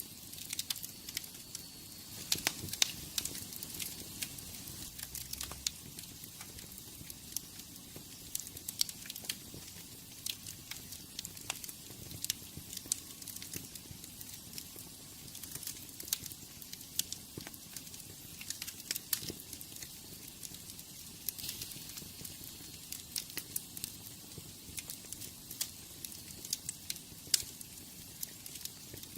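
Wood fire in a fireplace crackling, with irregular sharp snaps and pops over a faint steady hiss of the flames.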